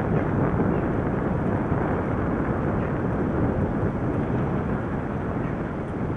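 Steady wind rumble on the microphone and road noise from a bicycle being ridden.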